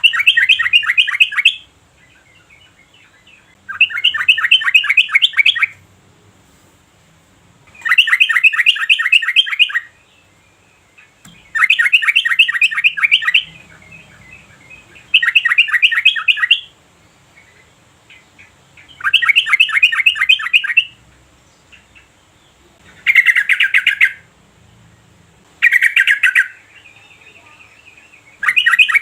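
Yellow-vented bulbul calling: a rapid bubbling chatter in repeated bursts of about a second and a half to two seconds each, coming every three to four seconds.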